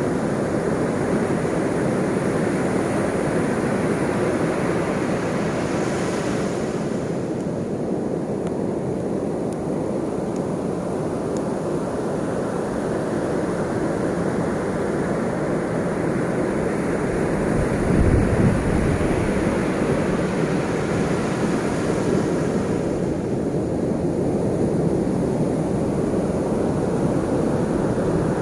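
Ocean surf: a continuous low rush of breaking waves that slowly swells and eases, with one heavier low surge about eighteen seconds in.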